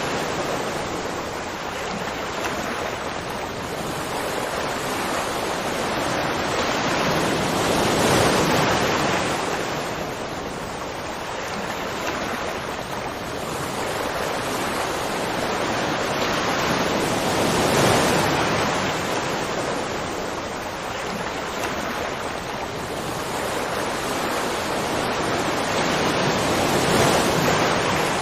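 Continuous rushing water that swells and eases slowly about every nine or ten seconds.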